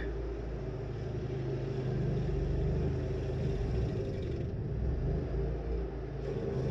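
27-horsepower stump grinder running steadily while its cutter wheel grinds down a large tree stump, a constant engine rumble.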